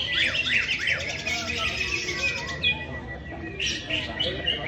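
Cucak ijo (green leafbird) singing: a run of quick, falling chirps, a short pause, then more chirps near the end.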